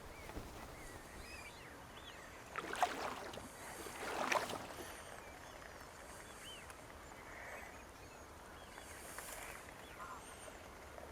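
Two canoe paddle strokes splashing in the water, about three and four seconds in, over a faint background of small birds chirping.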